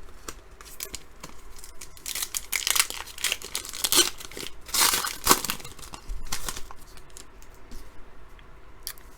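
A foil trading-card pack being torn open and its wrapper crinkled, with the cards inside rustling, in a run of crackles loudest through the middle.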